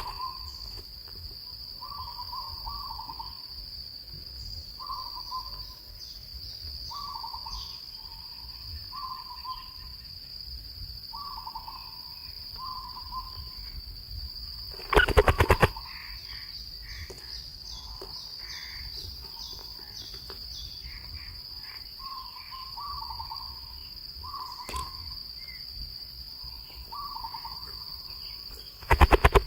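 Outdoor wildlife ambience: a steady high insect drone, like crickets, under a bird repeating a short call about once a second, with a spell of higher chirping in the middle. A loud burst of rapid clicks cuts in about halfway through and again at the very end.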